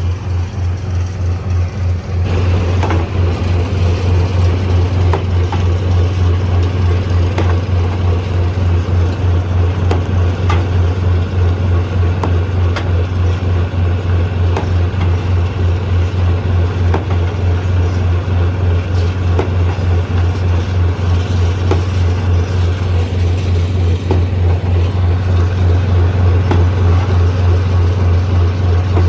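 Stone crusher running: a steady, rapidly pulsing low engine hum with scattered sharp knocks of stone. It gets louder about two seconds in.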